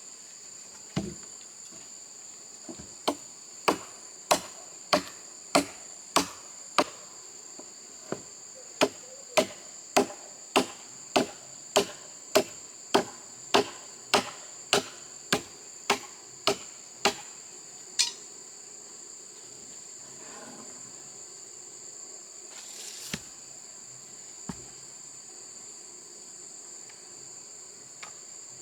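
Hammer driving nails into a wooden frame: a steady run of blows, about three every two seconds, with one short pause, stopping a little past halfway. A steady high-pitched drone of insects underneath.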